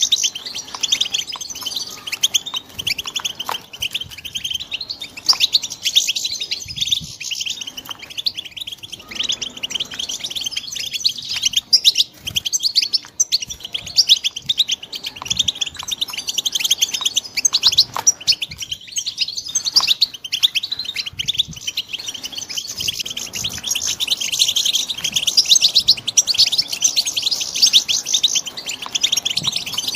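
Young European goldfinches twittering and singing without pause: a dense stream of rapid, high-pitched chirps and trills.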